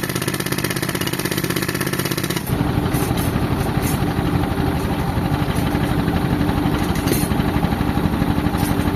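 Tractor engine running an air compressor that powers a pneumatic concrete breaker, a dense rapid churning. About two and a half seconds in, the sound changes abruptly to a heavier, lower running.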